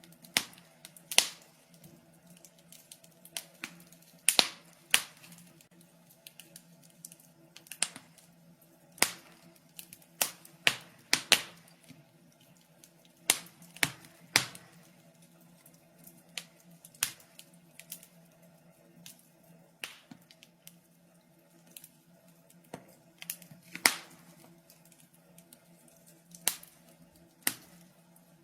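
Wood fire burning in a fireplace, crackling with irregular sharp pops and snaps, some much louder than others, over a faint steady hum.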